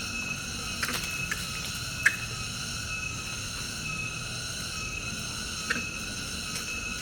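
Steady high-pitched chorus of insects, several pitches held without break, with a few short sharp ticks, the loudest about two seconds in.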